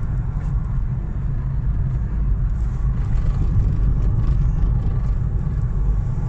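Steady low rumble of car road and engine noise.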